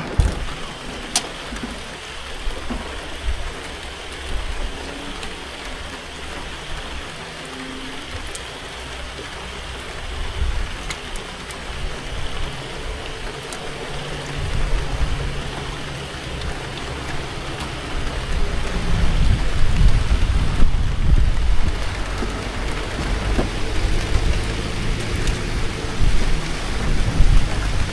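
Heavy rain pouring down steadily in a tropical rainstorm. From about two-thirds of the way through, a low rumble swells up under the rain and the whole sound grows louder.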